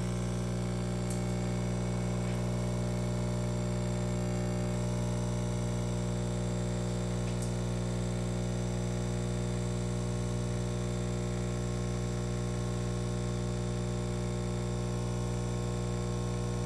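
A L'OR pod coffee machine's pump humming steadily as it brews a full-size cup.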